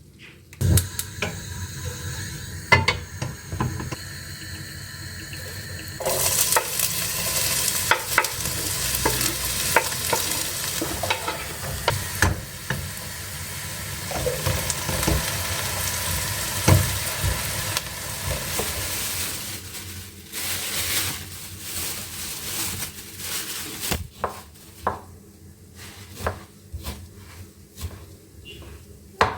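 Chicken and mushrooms sizzling in a frying pan while being stirred, with the utensil knocking against the pan. The sizzle grows louder about six seconds in and dies down near the end, leaving scattered knocks.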